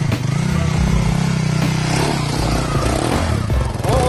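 Dirt bike engine running hard under load while climbing a steep rocky slope. Its note holds steady for about two seconds, then drops away into rougher noise.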